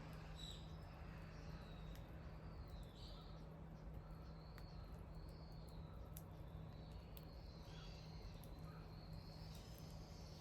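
Faint wood fire crackling with scattered small pops, while birds call softly in the background over a steady low hum.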